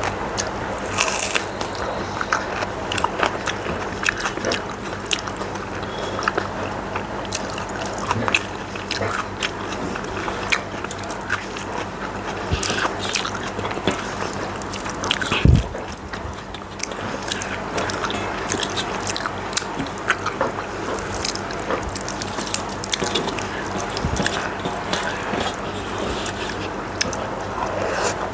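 Close-miked chewing of rice and raw onion eaten by hand, with many small wet mouth clicks; a single low thump about halfway through.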